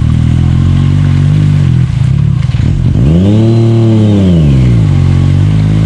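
Side-by-side UTV engine running hard at steady high revs. It dips briefly about two seconds in, then revs up and falls back down again over about two seconds.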